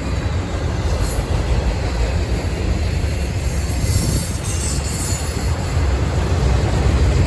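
Train rolling past on the rails: a steady low rumble, with a faint high-pitched wheel squeal about a second in and again around four to five seconds in.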